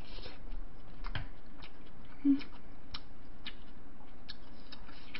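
Close-miked chewing of a mouthful of mixed rice, with irregular soft mouth clicks and smacks, and one short low hum about two seconds in.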